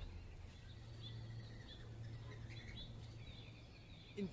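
Faint outdoor ambience with a few short, faint bird chirps over a low steady hum.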